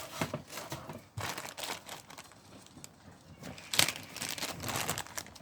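Rustling and clicking of small plastic packets of tool accessories being handled and sorted, with a sharper click about four seconds in.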